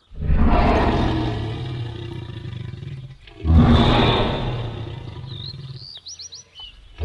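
Designed dragon roar sound effect: two deep, growling roars, each starting suddenly and fading over a few seconds, the second the louder. Near the end come a few short, high chirps.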